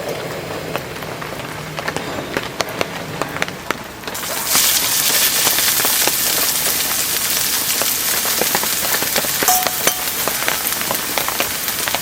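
Heavy rain falling, with many separate drops ticking; about four seconds in it turns abruptly into a louder, denser rain hiss.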